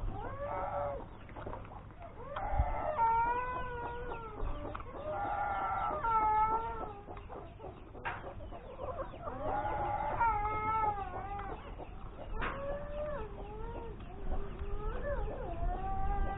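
Chickens clucking, with a series of drawn-out, wavering calls repeated every couple of seconds.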